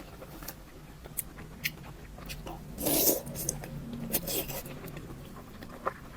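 Close-miked eating sounds: chewing with quick wet mouth clicks and smacks, and a louder, longer burst about three seconds in.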